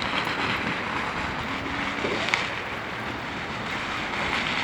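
Fireworks going off: a steady hiss of noise with one sharp pop a little over two seconds in.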